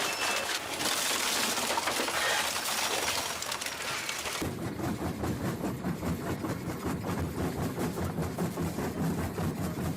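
Heavy shredding or crushing machinery at work: a dense grinding, crashing racket for about four seconds, then an abrupt change to a lower, fast rhythmic pounding of a machine running.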